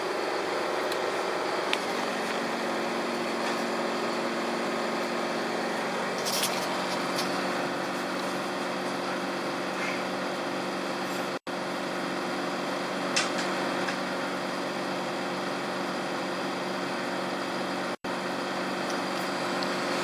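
A train standing at the platform with its engine or onboard equipment running, a steady idling hum with several low tones. It is broken by two very short dropouts, the second one near the end.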